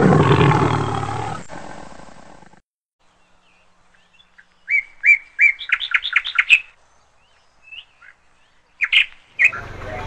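A loud, noisy sound dies away over the first two and a half seconds. Then, about five seconds in, a small bird gives a quick run of about seven high chirps, with a few single chirps near the end.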